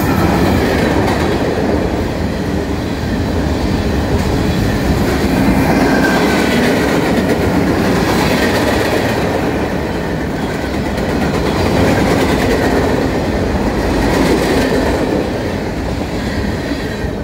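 Freight train cars (covered hoppers, a lumber flatcar and a tank car) rolling past close by: a loud, steady rumble of steel wheels on the rails with clickety-clack over the rail joints, swelling and easing slightly as the cars go by.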